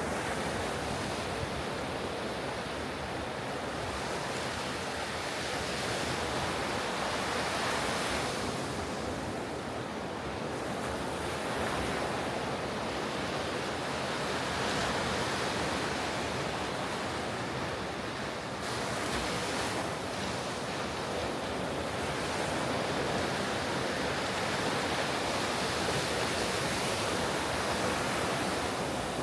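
Ocean surf breaking on a beach: a continuous rush of waves that swells and eases every several seconds.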